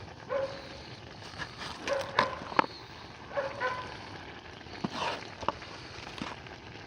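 A dog giving short yips a few times, with several sharp clicks in between.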